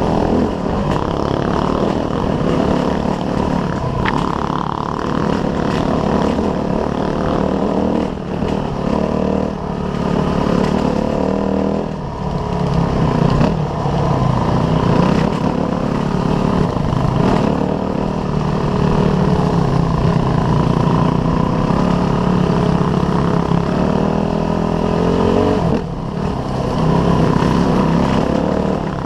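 Dirt bike engine running under constantly changing throttle while riding off-road, the revs rising and falling, with brief drops in revs about 8, 12 and 26 seconds in.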